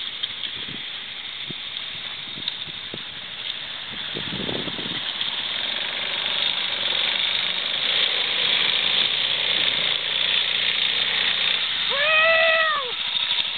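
Motorcycle at a creek crossing: a steady rushing of engine and water that grows louder, with a few knocks in the first five seconds and a short rev that rises and falls near the end.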